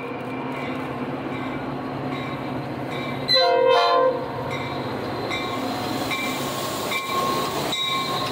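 Metra diesel locomotive pulling into a station and passing close by, with its engine running and one short horn blast about three seconds in. A bell rings about twice a second, and wheels click over the rails near the end as the locomotive goes past.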